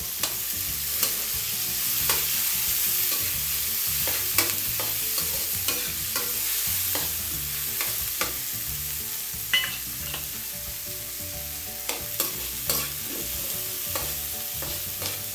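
Onion, garlic and freshly added tomato sizzling in hot oil in a frying pan while a metal spatula stirs them, with scattered clicks and scrapes of metal on the pan.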